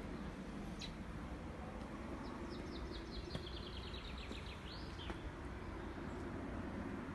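A songbird singing: a single high note about a second in, then a quick run of about a dozen high notes stepping down in pitch, ending in a short flourish. Steady low background noise runs underneath.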